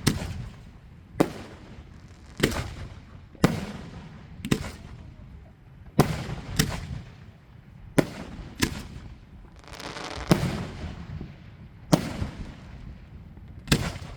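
Aerial fireworks shells bursting: about a dozen sharp booms, one every second or so, each trailing off in a rolling echo.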